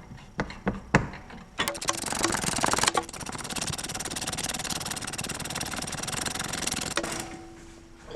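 A few sharp clicks, then a power tool running a nut onto a sway bar end link stud with a fast, even mechanical rattle for about five seconds, stopping near the end.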